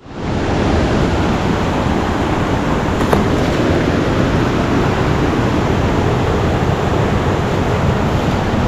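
Linville River water rushing over rocks, a loud steady rush that fades in at the start, with a faint click about three seconds in.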